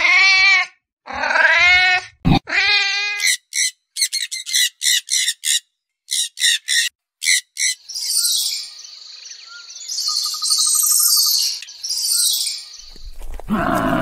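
A cat meows three times. Then a red squirrel gives a fast run of short, sharp high chirps followed by squeaky chattering. Near the end a cow begins a deep moo.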